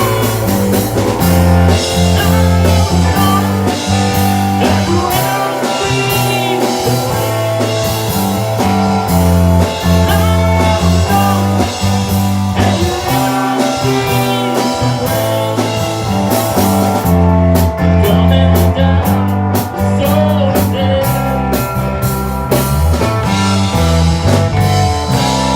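Rock band playing: electric guitar, bass and drum kit in a steady blues-rock groove, with quick cymbal hits about two-thirds of the way through.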